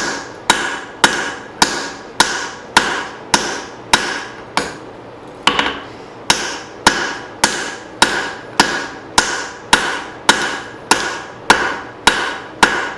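Cross-peen hammer striking hot leaf-spring steel, drawing out and widening a hatchet blade. Steady blows, about two a second, each with a short metallic ring, with a brief pause about halfway through.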